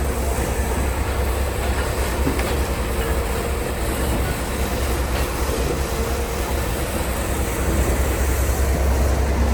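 Logging truck driving: a steady low diesel engine drone with road and rattle noise, growing a little louder near the end.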